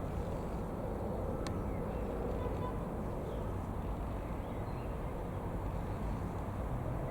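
Steady low rumble of a distant aircraft, with a single sharp click about one and a half seconds in and a few faint bird chirps.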